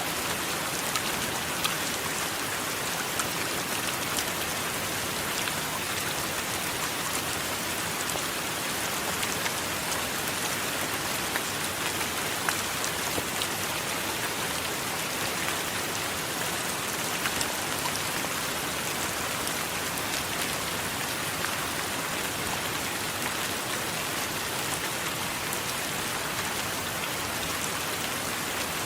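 Steady heavy rain falling on a surface, with a dense patter of individual drops.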